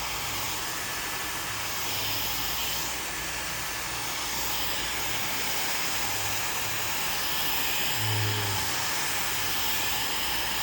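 Hand-held hair dryer blowing steadily.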